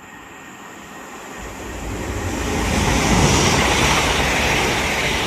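Transpennine Express Class 185 diesel multiple unit passing through the station without stopping. Its rushing noise builds over the first three seconds, with a low rumble coming in about a second and a half in, then stays loud as the train goes by.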